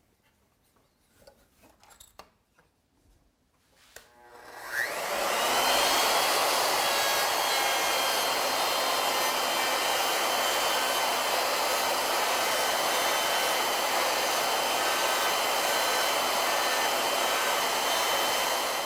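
Router on an ornamental milling machine, fitted with a 2-flute straight cutter, switched on about four and a half seconds in. Its high whine rises in pitch as it spins up, then it runs steadily while trimming the end of a wooden part square.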